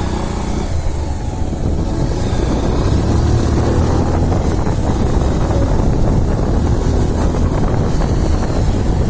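Bajaj Pulsar motorcycle's single-cylinder engine running at cruising speed, with wind rushing over the microphone.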